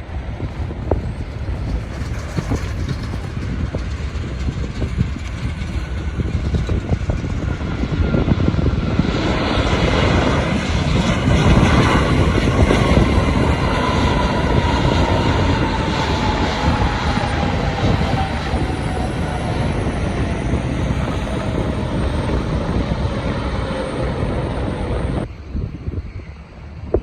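Jet airliner passing on its arrival approach: engine noise swells to a peak about halfway through, with a whine that falls steadily in pitch as the plane goes by. The sound cuts off suddenly near the end.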